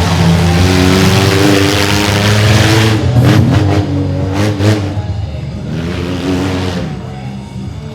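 Mini monster truck engine revving hard, its pitch rising and falling, with a few sharp cracks about midway. It eases off toward the end.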